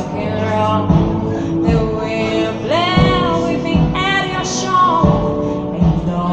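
A singer performing a slow ballad over backing music, holding long notes with vibrato, with a low drum beat about once a second.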